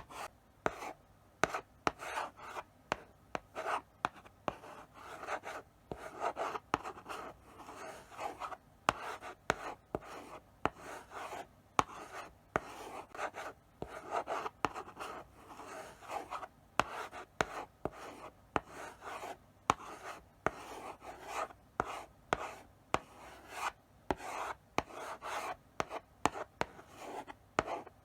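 Chalk writing slowly on a blackboard: a steady run of short scratching strokes broken by sharp taps as the chalk meets the board.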